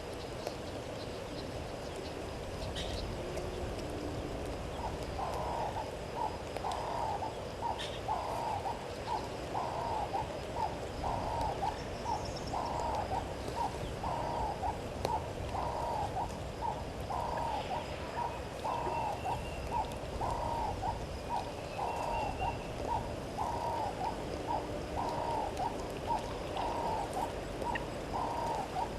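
A bird calling a long, even series of short low hooting notes, about one every 0.7 seconds, starting about five seconds in. Faint high whistles from other birds come in between.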